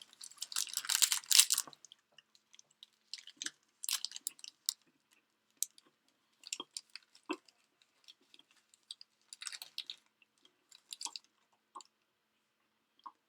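A person chewing and biting a caramel churro Pure Protein bar close to the microphone, with scattered wet clicks and crackles. A louder crackling burst fills the first second and a half.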